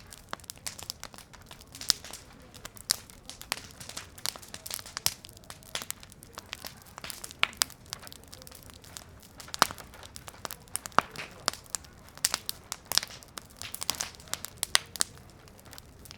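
Wood fire crackling and popping, with irregular sharp snaps, several a second.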